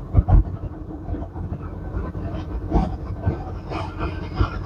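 Semi-truck cab interior on a downhill grade: the engine runs steadily under the engine brake over a low road rumble, with irregular knocks and rattles from the cab shaking on the road.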